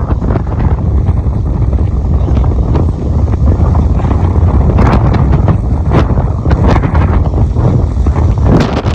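Strong wind buffeting the microphone by a rough sea, a constant low rumble, with a few sharp crackles in the second half.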